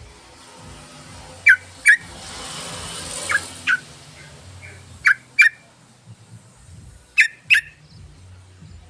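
Yellow-vented bulbul (trucukan) calling in pairs of short, sharp notes, a pair about every two seconds. This is a repeated lure recording for drawing in trucukan.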